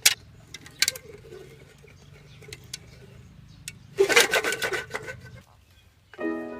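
Rubbing and scraping of something worked by hand, with a few sharp clicks, then a louder rasping burst about four seconds in. Background music comes in near the end.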